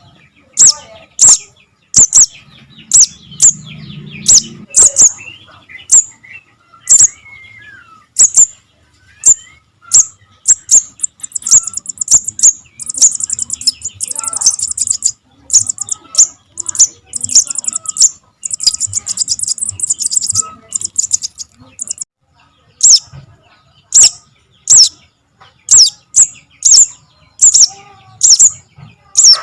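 Young little spiderhunter (sogok ontong) calling: sharp, high chips repeated about once or twice a second, breaking into rapid chattering runs in the middle.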